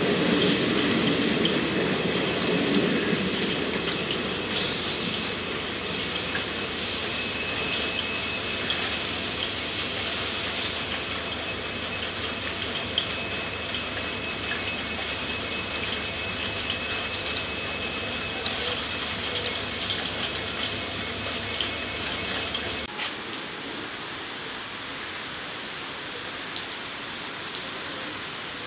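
Express train coaches rolling past along the platform track, a low rumble with wheels clicking over the rails, fading over the first few seconds. A steady hiss of heavy rain carries on underneath, and a low hum cuts off suddenly about 23 seconds in.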